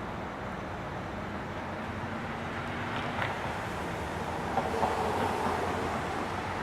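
Steady rumble of a passing vehicle, growing a little louder and picking up a wavering drone in the second half.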